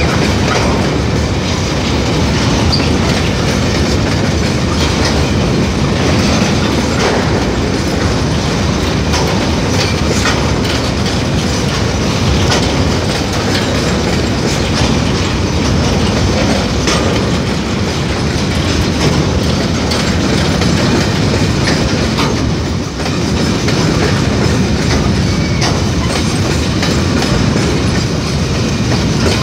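Freight train of covered box wagons passing close by: a steady loud rumble of steel wheels on rail, with an irregular clickety-clack as the wheels cross rail joints.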